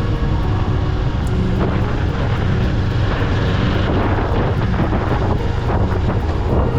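Kawasaki Eliminator 500's 451 cc parallel-twin engine running at a steady pitch under way, with wind noise over the microphone that swells in the middle.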